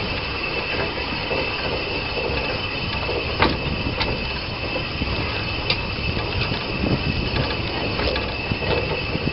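Narrow-gauge train running along the track: a steady running noise with a faint high hiss over it and a few sharp clicks from the wheels and rails.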